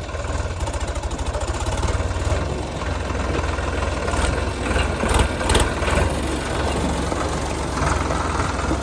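Sonalika DI-35 tractor's diesel engine running steadily, with a few short sharp knocks or clanks a little past the middle.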